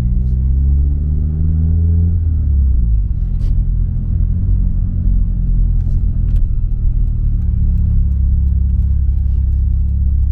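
Nissan Silvia S15 Spec R's SR20DET turbocharged four-cylinder engine pulling under acceleration, its note rising for about two seconds. It then drops away sharply, as at a lift-off or gear change, and settles into a steady drone as the car drives on.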